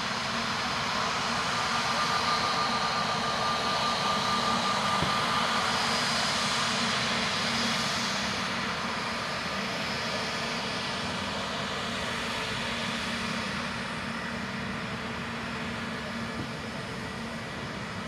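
Airbus A320neo's CFM LEAP-1A jet engines running, a steady rush of engine noise with a thin whine over it, growing louder over the first few seconds and then slowly fading.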